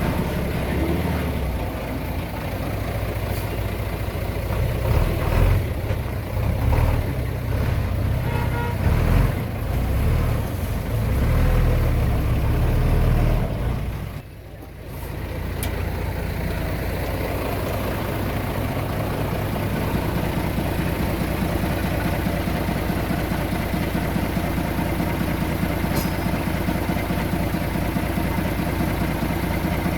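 Diesel engine of heavy earth-moving machinery working under changing load for about 14 seconds. It drops away briefly about halfway, then runs steadily.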